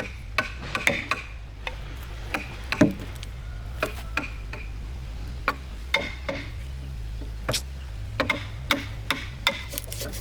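Irregular sharp taps and knocks, a few with a brief metallic ring, over a steady low hum.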